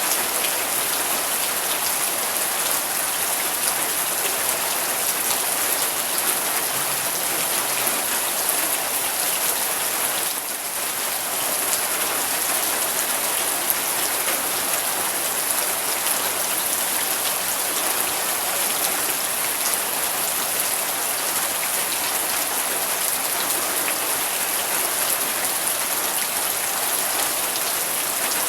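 Steady rain falling, a dense even hiss speckled with small drop ticks. The level dips briefly about ten seconds in.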